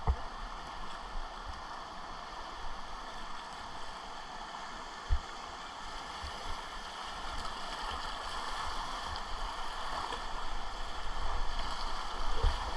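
Rushing whitewater of a river rapid: a steady hiss of moving water that swells louder near the end. A few brief low thumps, the clearest about five seconds in.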